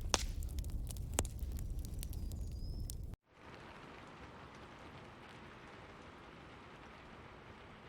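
Fireplace crackling, with sharp pops over a low rumble, cut off abruptly about three seconds in. A steady, softer rain sound follows.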